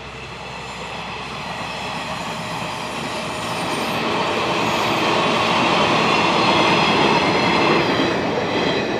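JR East 189-series electric train passing at speed: a steady rumble of wheels on rail that grows louder through the passage and is loudest near the end.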